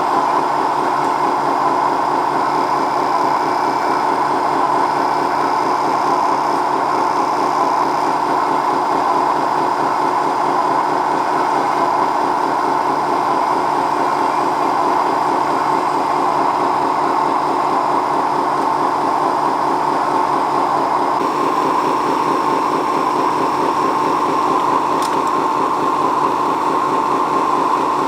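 Small electric motors and gearing of RC toy vehicles whirring steadily at an even pitch and level.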